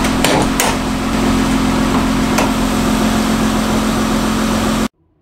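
Third-generation Acura TL's V6 engine idling with the hood open: a steady hum over a constant hiss, with a few light clicks in the first couple of seconds. The sound cuts off suddenly near the end.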